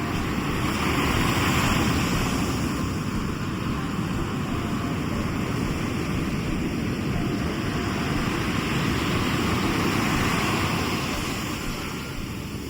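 Sea waves washing onto the shore: a steady rush of surf that swells twice, about two seconds in and again near ten seconds.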